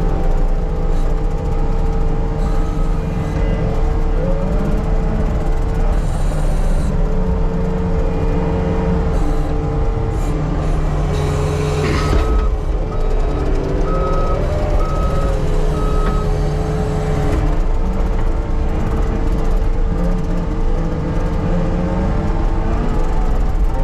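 Diesel engine of an earthmoving machine running steadily under work, with its backup alarm beeping in a spell near the start and again in the middle. There is a single knock about halfway through.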